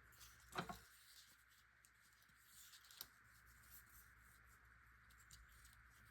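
Near silence: room tone, with a few faint handling sounds of paper pieces being moved on the layout, one short sound about half a second in and a click about three seconds in.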